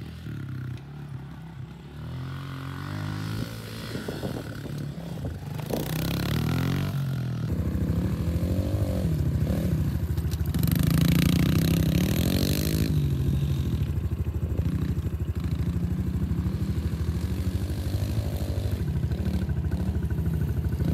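Small single-cylinder pit bike engine running and revving up and down as it is ridden, with some clattering along the way.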